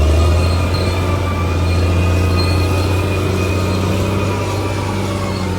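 Crawler bulldozer working, its diesel engine running as a steady low drone, with thin high squealing tones from the steel tracks coming and going over it.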